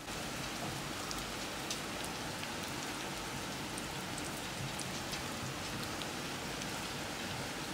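Heavy rain pouring steadily, with individual drops ticking sharply on nearby surfaces.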